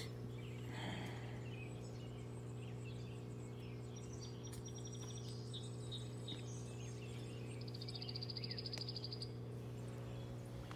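Faint outdoor pond-side ambience: scattered high chirps and, about eight seconds in, a rapid pulsing trill for about two seconds, over a steady low hum.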